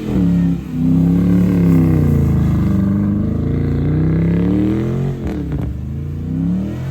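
Vehicle engine revving, its pitch rising and falling in long swells, dropping sharply about half a second in and again about five seconds in.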